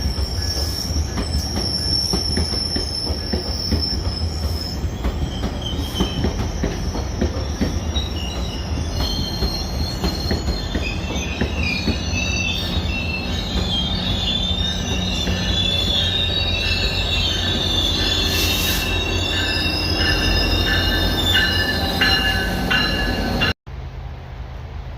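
Passenger train rolling past, its wheels clicking over the rail joints with a steady rumble. Wavering high-pitched wheel squeal builds from about ten seconds in. The sound cuts off sharply near the end to a quieter, steady background.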